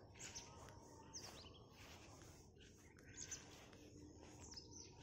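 Faint bird chirps: a few short, high calls scattered through, over a low, even outdoor background noise.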